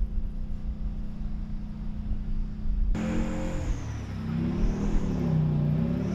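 Heavy vehicle engine running steadily. About three seconds in it switches abruptly to a louder engine whose pitch rises and falls as it revs, with a thin high whine above it.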